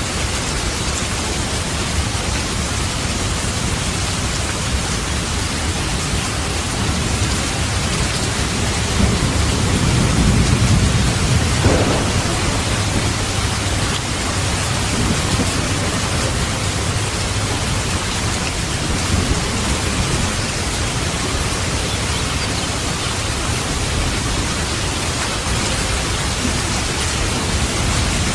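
Steady, heavy rain with a roll of thunder that swells about a third of the way in. The thunder peaks in a short, sharper crack a little before the middle, then sinks back under the rain.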